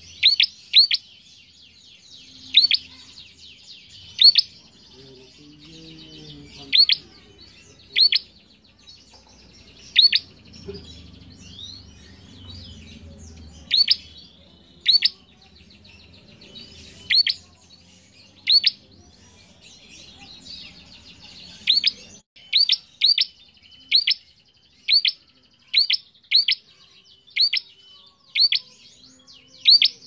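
A prenjak (prinia) calling: a series of sharp, high notes, each a quick downward sweep, repeated about once a second and coming faster near the end, over faint high twittering.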